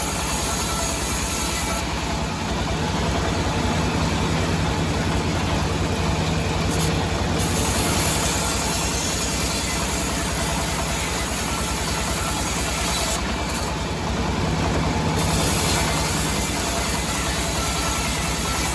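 Sawmill engine running steadily at an even speed, with a fast low pulse throughout.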